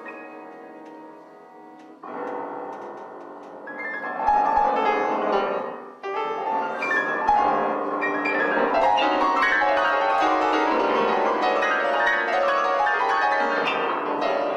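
Classical-style piano music: a chord dies away, a new one is struck about two seconds in, and from about four seconds the playing grows fuller and louder.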